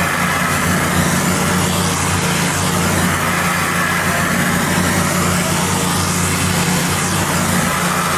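Pressure washer running steadily: a constant motor hum under the even hiss of high-pressure water spraying concrete.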